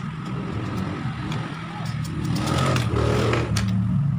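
A motor vehicle engine running, a low rumble that grows louder about two and a half seconds in, with a few light clicks over it.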